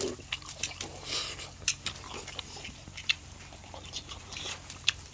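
A person chewing and smacking while eating grilled pork, with irregular sharp mouth clicks about two a second.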